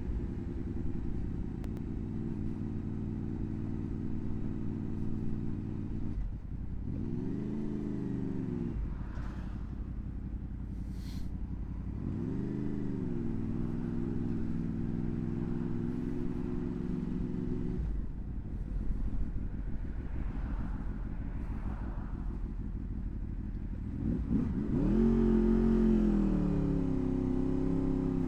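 Honda VFR800's V4 engine running on the move. Its revs climb and fall back three times as it accelerates, loudest near the end.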